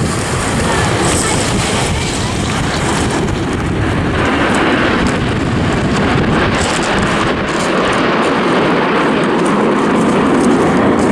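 Jet noise from the Red Arrows' BAE Hawk T1 jets flying their display, a steady roar that builds towards the end, mixed with wind buffeting the microphone.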